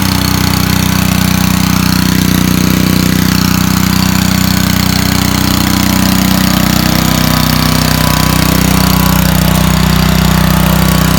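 Honda GCV160 single-cylinder gas engine of a Ryobi 3000 psi pressure washer running steadily and loud at a constant speed, its choke set to the run position.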